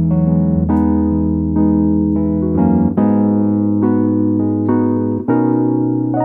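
Piano playing sustained chords over low bass notes, with a new chord struck about every second.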